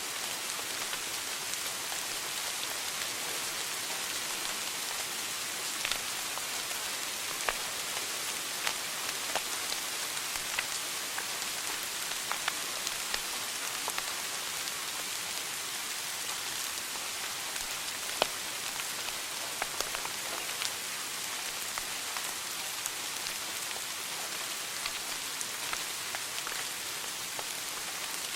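Wood fire burning in a fireplace, crackling: a steady hiss with scattered sharp pops and snaps, one louder pop about two-thirds of the way through.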